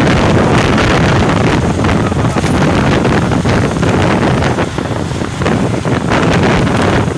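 Loud, steady wind buffeting the microphone of a moving motorcycle, with road noise underneath.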